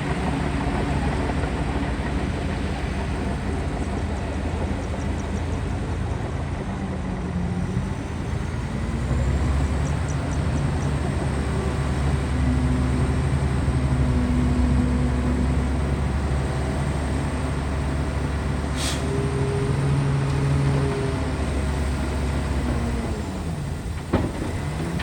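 Bulldozer's diesel engine working under load, its note rising and falling as the load changes; just before the end the revs drop sharply and then climb again.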